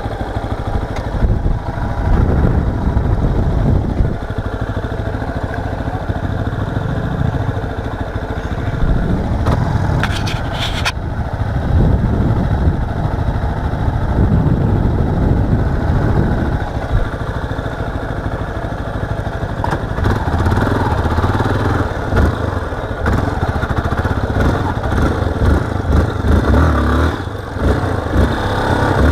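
Single-cylinder trail motorcycle engine running, its pitch rising and falling as it is revved up and down, most clearly in the last several seconds.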